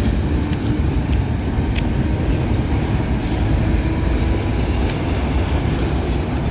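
Norfolk Southern freight train rolling past, a steady heavy rumble of cars and wheels with occasional light clicks.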